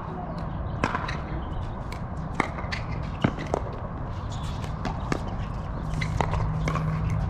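Irregular sharp knocks and taps, some louder than others, over a steady low rumble.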